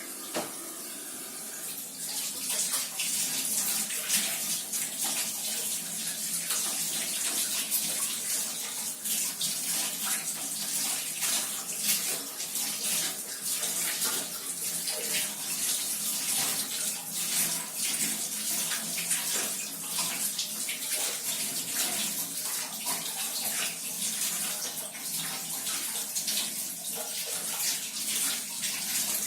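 Water running from a tap and splashing over a dishwasher filter being rinsed clean. The flow starts about two seconds in and then runs steadily with uneven spattering.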